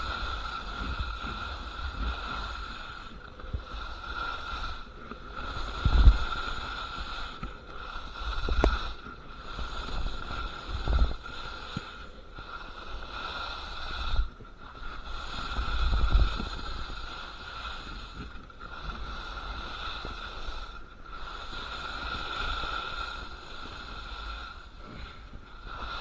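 Skis scraping and chattering over icy, hard-packed snow on a very steep slope, in a rhythm of turns with a short break every two to three seconds. Wind buffets the microphone, with a few heavy thumps.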